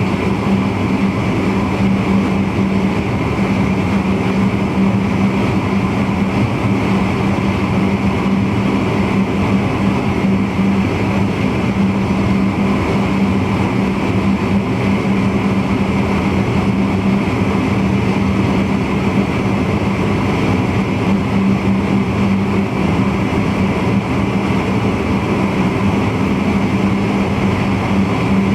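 NS VIRM double-deck electric intercity train running along the line, heard from the driver's cab: a steady running rumble with a constant low hum.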